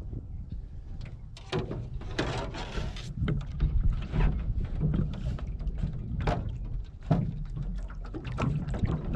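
Irregular knocks and water splashes around a small rowboat, with a low wind rumble on the microphone.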